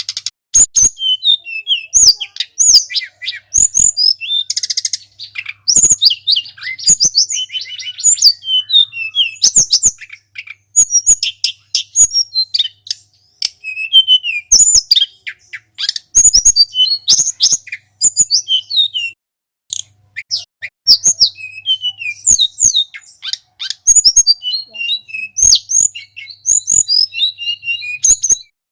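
A songbird, the kind kept and trained in Indonesia, sings a fast, varied song of high chirps and whistles almost without pause, mixed with sharp clicks. This is a recorded song used as masteran, a training recording for caged birds.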